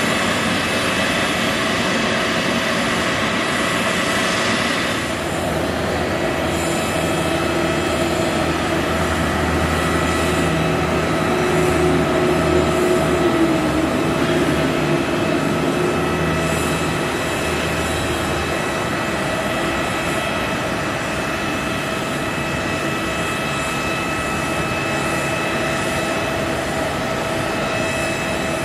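Jet airliner engines running steadily: a rushing noise with several steady whining tones. The high hiss drops away about five seconds in, and a lower hum rises and fades in the middle.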